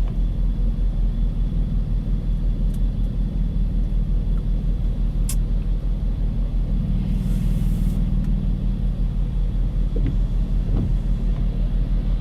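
Car driving, a steady low engine and road rumble, with a brief hiss about seven seconds in.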